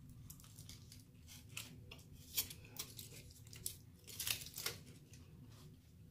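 Close-miked chewing of a burger: irregular wet mouth clicks and smacks, a few louder than the rest.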